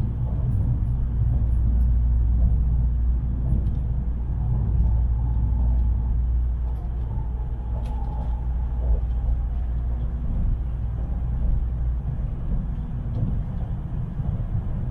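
Tokaido Shinkansen train running noise inside the passenger car: a steady low rumble as the train slows on its approach to a station stop, with a faint whine that drifts slightly lower about halfway through.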